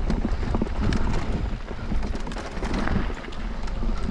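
Mountain bike rolling fast down a rough dirt trail: tyres over dirt and rock, with a constant clatter of knocks and rattles over a steady low rumble.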